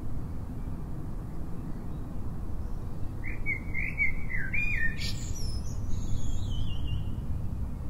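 A bird singing: a quick run of up-and-down notes about three seconds in, then higher notes that fall in pitch, over a steady low background rumble.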